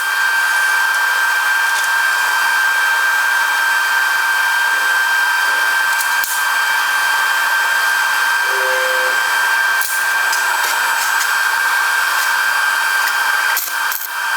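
Electric angle grinder motor running steadily at full speed, a constant high whine, with a few short knocks near the end.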